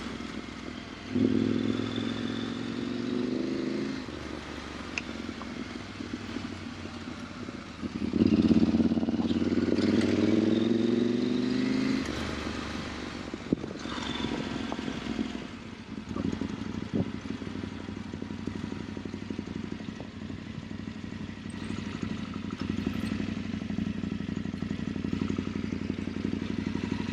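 KTM 890 Adventure R's parallel-twin engine running under throttle on a dirt trail, revving up in two stronger pulls, about a second in and again around eight seconds in, then settling back. Scattered clatter and knocks sound over the engine throughout.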